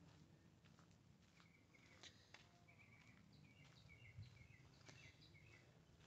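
Near silence with a bird chirping faintly: short high notes in quick little runs, repeated over a few seconds.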